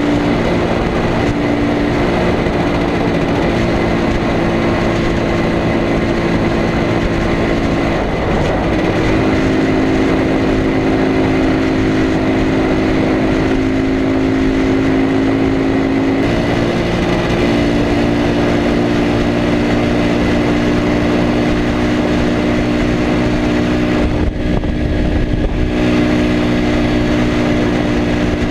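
IZh Planeta Sport 350's single-cylinder two-stroke engine running under way. Its note holds steady for several seconds at a time and shifts a few times: about a third of the way in, about halfway, and again near the end.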